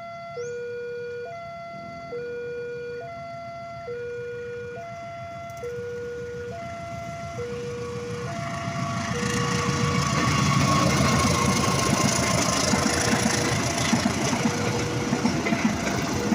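Electronic two-tone level-crossing warning alarm, alternating between a low and a higher tone, each held just under a second. From about eight seconds in, the noise of an approaching train swells up and drowns the alarm as the train passes.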